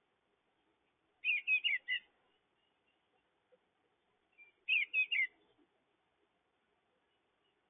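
A bird calling twice, each time a quick run of four or five short chirpy notes lasting under a second, the two calls about three and a half seconds apart.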